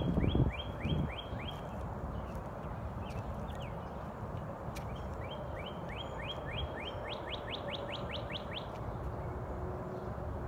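A songbird singing two runs of quick repeated whistled notes, each note sliding down in pitch; the second, longer run starts about five seconds in and turns to higher, sharper notes before stopping. A steady low outdoor rumble runs underneath, with a couple of wind bumps on the microphone in the first second.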